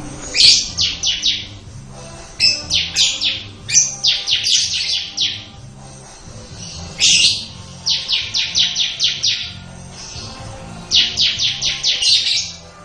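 Bar-winged prinia (ciblek) singing in its rapid 'ngebren' style: five bursts of quick, high, stuttering notes, each burst a fast run of about five to eight strokes, a second or two apart. A faint musical backing runs underneath.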